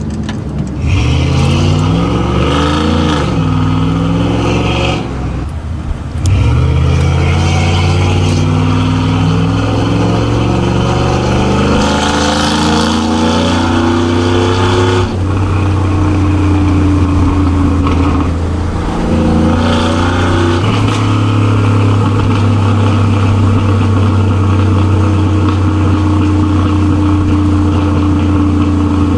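Truck engine accelerating through the gears, its pitch rising and then dropping back at each shift in the first half, then holding a steady pitch while cruising.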